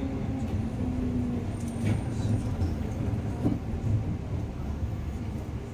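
Interior running noise of a JR Sagano Line electric commuter train braking into a station: a steady low rumble from the wheels and underfloor, with a faint hum in the first two seconds and a few light knocks.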